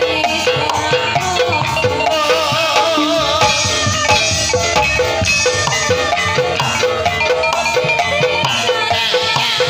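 Gamelan-style music accompanying a kuda kepang dance: metallophones struck with mallets in a steady rhythm over drums. A wavering held melody line joins about two seconds in for a couple of seconds.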